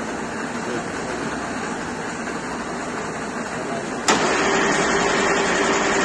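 Heavy 165 DIP-500 screw-cutting lathe running with a steady mechanical hum. About four seconds in a sharp clack sounds, and the machine gets louder with a steady whine, as something in the drive or feed engages.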